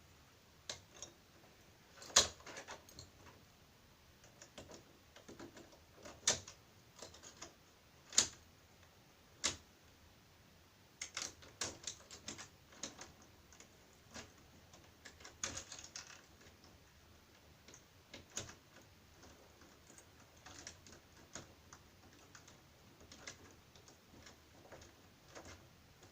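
Irregular sharp clicks and taps of a deadlock's metal parts and connecting screws being handled and lined up in a door, a few louder knocks among many small ticks.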